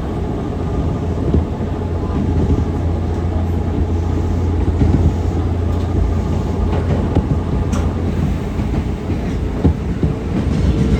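Nankai 6200-series resistor-controlled electric train running, heard from inside the car: a steady rumble with a low motor hum, and a few sharp clicks as the wheels cross rail joints.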